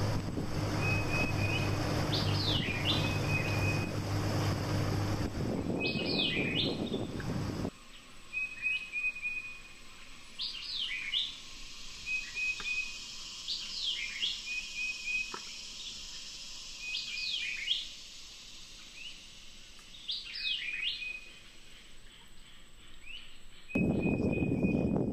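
A bird calling over and over, a short flat whistle and quick up-and-down slurred notes repeated every few seconds. For the first seven or so seconds a steady low hum with wind noise lies under it, and near the end a louder rushing noise cuts in.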